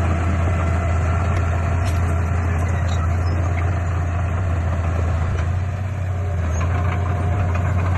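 Heavy diesel engine of earthmoving machinery running steadily with a low drone, easing slightly about six seconds in.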